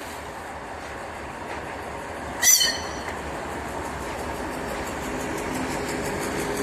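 2TE10M diesel locomotive running as it pulls a freight train away, its sound slowly growing louder, with steady engine tones coming up from about five seconds in. A brief, sharp high-pitched squeal about two and a half seconds in is the loudest moment.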